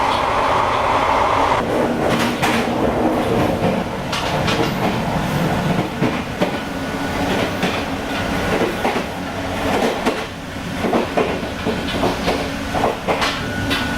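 Blue-train sleeper coach running on the rails, heard from inside the car: steady running rumble with irregular clacks of the wheels over rail joints. A loud rushing noise drops away about a second and a half in.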